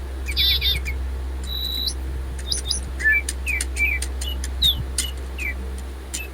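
Several DigiBird robotic toy birds chirping in choir mode: a short warble, a steady high whistle tone, then a run of quick falling chirps, several a second, from about two and a half seconds in, over a low steady hum.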